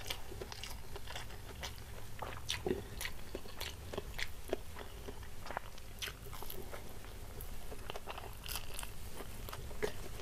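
A person chewing fried food with a full mouth, close to a clip-on microphone: irregular wet mouth clicks and crisp crunches, including bites into a fried stuffed tofu fritter.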